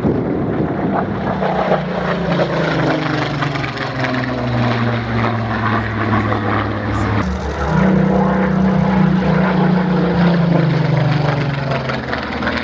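Spitfire PR XIX's Rolls-Royce Griffon V12 engine running loud as the aircraft flies past, its note falling in pitch as it goes by. About seven seconds in the note jumps back up, then falls again.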